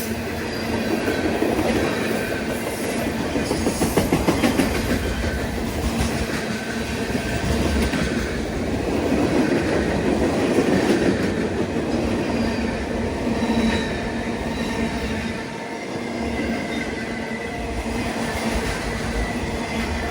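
A train rolling past: a steady rumble and clatter of railcar wheels on the rails, with faint wheel squeal coming and going.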